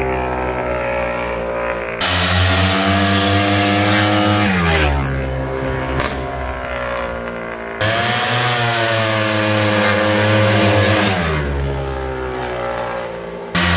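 Rokon Cobra 340 MX dirt bike's two-stroke engine revving up and easing off several times as it is ridden around, its pitch rising and falling, with abrupt jumps in level between shots.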